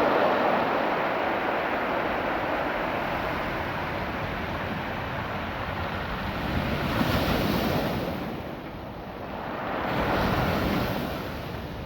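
Ocean surf washing over a beach of small, naturally rounded stones, which give off their own distinct sound as the water runs over them. The surf swells about seven seconds in and again near ten seconds.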